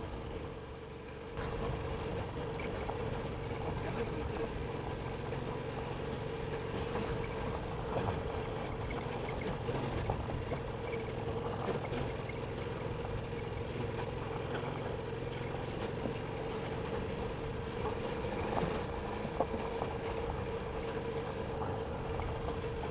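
Motorcycle engine running steadily at low speed on a rough dirt trail, with a held engine note and a few short knocks from the bike jolting over the ground.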